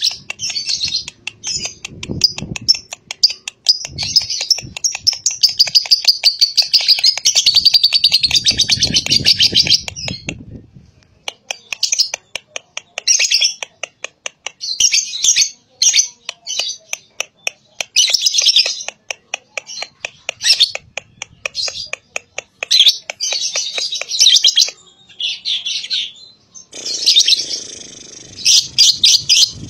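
Lovebird chattering: fast runs of high, sharp chirps, unbroken for about the first ten seconds, then in bursts of a second or two with short breaks between them.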